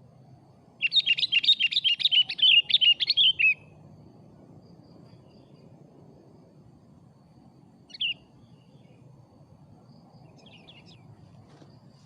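Sooty-headed bulbul (kutilang) singing a rapid phrase of many short notes for about three seconds, starting about a second in. A single short call follows in the middle, and faint notes come near the end.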